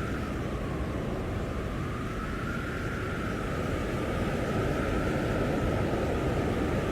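Blizzard wind blowing steadily, with a faint whistle that wavers slowly in pitch and grows a little louder about halfway through.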